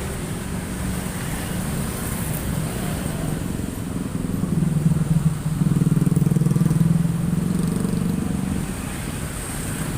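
Road traffic crossing a bridge. A single motor vehicle's engine passes close, swelling from about four seconds in, loudest midway, and fading near the end with a low, evenly pulsing hum.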